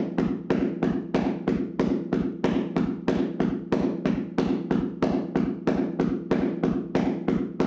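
Hands slapping and tapping a person's body in a vigorous percussive massage: quick, even strikes, about four a second, in a steady rhythm.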